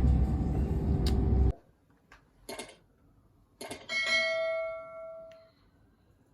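Low vehicle-interior rumble that cuts off abruptly about a second and a half in. A few light clicks follow, then a bell-like chime with several ringing tones that fades out over about a second and a half.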